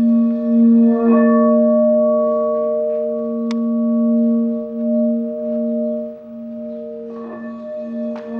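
Pink crystal singing bowl sung with a sustained low hum and ringing overtones, its tone swelling and pulsing in loudness. A single light tick sounds about halfway through.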